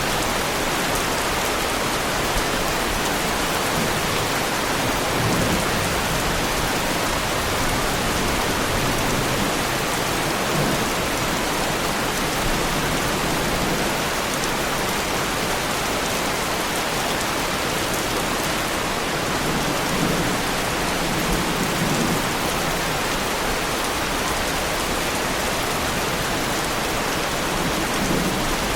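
Steady heavy rain falling on a car's bodywork, with a few low rumbles coming and going.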